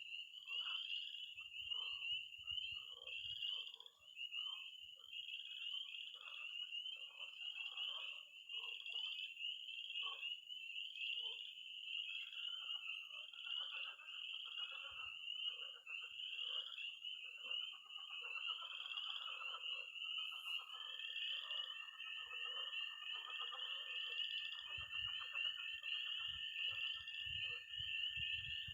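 Early-spring night chorus of spring peepers peeping steadily in a dense, high chorus, with lower croaking frogs calling irregularly beneath. From about twenty seconds in, a toad's long, steady, high trill joins.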